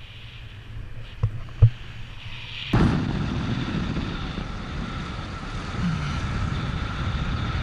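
Wind rushing over the microphone, coming on suddenly about three seconds in and then running steadily, with two short knocks just before it.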